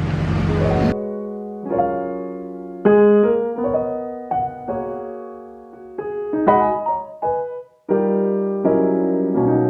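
Background piano music: a slow run of struck, ringing keyboard notes and chords. It comes in about a second in, after a second of steady rushing outdoor noise.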